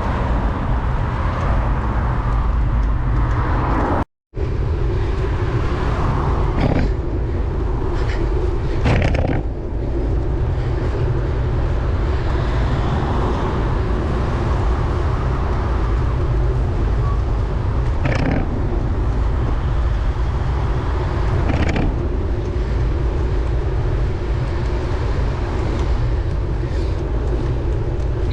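Steady wind rumble on the microphone from riding a bicycle on the road, mixed with traffic noise and a few brief knocks. The sound cuts out for a moment about four seconds in.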